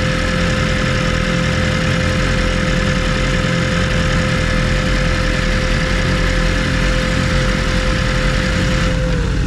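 Motorcycle engine idling steadily, with a steady whine over it that stops near the end.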